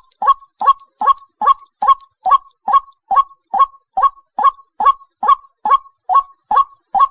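White-breasted waterhen calling: a short harsh note repeated steadily, about two and a half times a second, over a faint steady high hiss.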